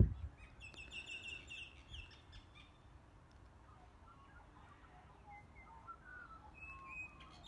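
Birds calling: a quick run of high, repeated chirps about a second in, then scattered softer whistled calls near the end. A brief low bump from the phone being handled at the very start.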